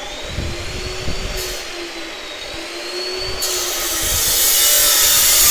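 A small motor whining with a rushing hiss, its pitch wavering slightly; the hiss grows louder about two thirds of the way in.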